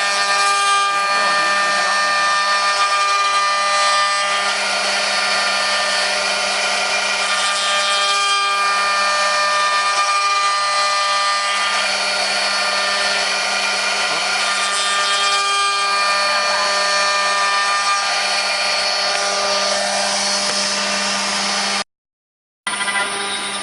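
Multi-spindle 4-axis CNC wood router running with a steady, many-toned whine from its spindles, swelling slightly every few seconds. The sound drops out briefly near the end.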